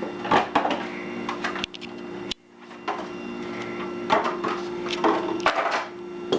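Toy tractor and its cardboard box being handled: irregular rustles, scrapes and a few knocks, over a steady low hum.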